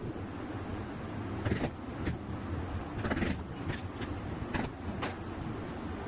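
Scattered light taps and scrapes of hand work on leather, about six in all, over a steady low hum.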